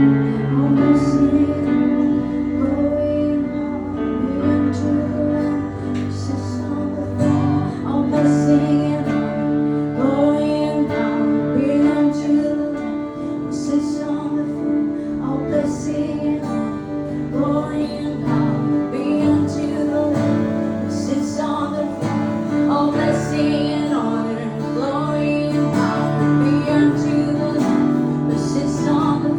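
Live acoustic worship music: an acoustic guitar strummed in steady chords while a woman sings a slow, held melody over it.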